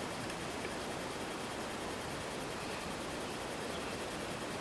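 Steady low hiss of background noise, with no distinct sound standing out.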